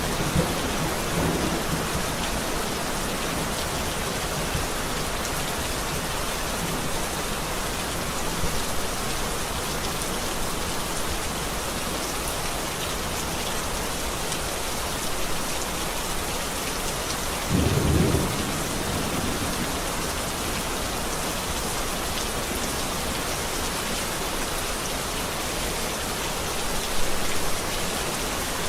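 Steady heavy rain falling, with a short low thunder rumble about two-thirds of the way through.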